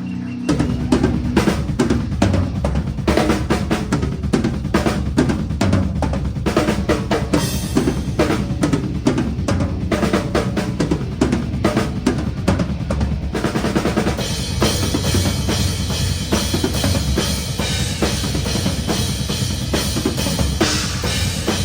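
Drum kit played live in a metalcore song, close to the kit: it comes in about half a second in with fast, dense bass drum and snare hits, and from about two thirds of the way through a steady wash of cymbals rides over the beat.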